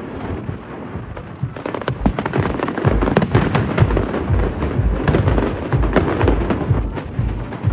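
Fireworks display: a dense run of bangs and crackles, with deep booms coming thick and fast from about two seconds in.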